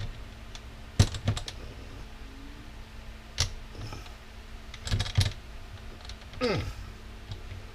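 Sharp metallic clicks and taps of hand tools working at the parts of a power washer pump as it is pried apart. They come in four short clusters a second or two apart, and the last one carries a brief falling squeak.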